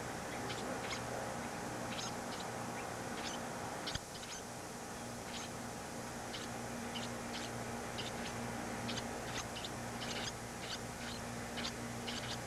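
Baby birds in the nest peeping in many short, high chirps at an irregular pace, over a steady low hum, with a single click about four seconds in.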